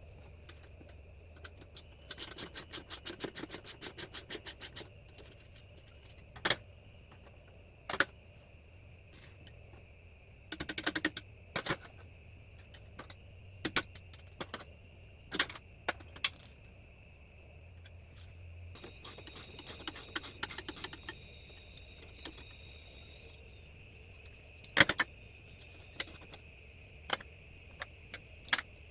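Ratchet spanner clicking in three short runs of rapid clicks as the go-kart's tie-rod bolts are undone, with scattered single metallic clinks of tools and parts between them.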